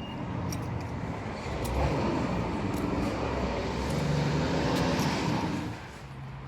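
A passing vehicle with a running engine and rolling noise. It builds up, holds for a few seconds, and eases off near the end.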